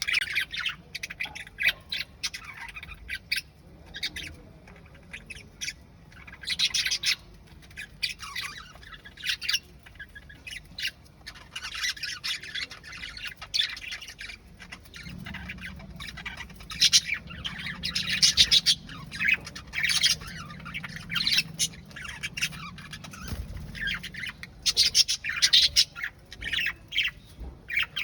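A pet parrot calling and chattering in short bursts of squawks and chirps, starting and stopping in bouts, loudest around the middle and near the end.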